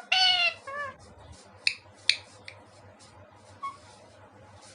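Indian ringneck parrot calling: a loud, high pitched call that falls slightly, a shorter call right after, then two sharp high chirps about two seconds in.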